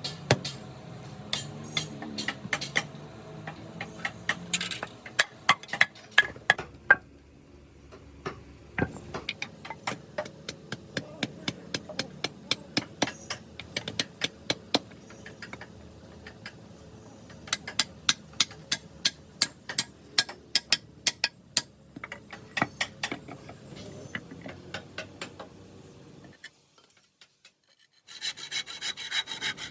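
Hand tools working wood: sharp strokes and taps in irregular runs of a few a second, with a short pause near the end and then denser scraping.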